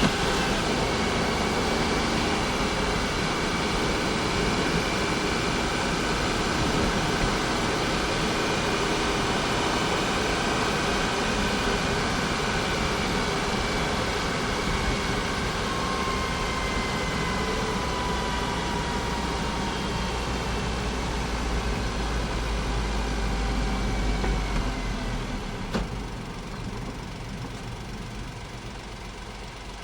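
Honda S660's small turbocharged three-cylinder engine running steadily, its note slowly falling as the car slows. About 26 seconds in it drops to a quieter idle.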